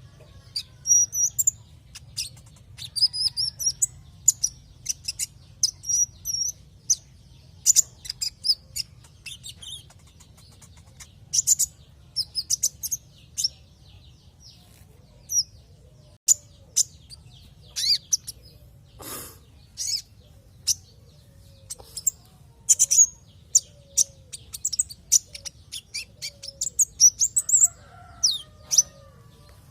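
Brown-throated sunbird (konin, kolibri ninja) song: quick runs of short, high chirps and twitters that come in bursts, with brief pauses between them, over a low steady hum.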